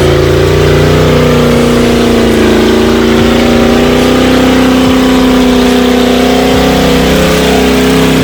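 Off-road 4x4's engine running hard at high, steady revs, its pitch sagging slightly and picking up again as it works under load.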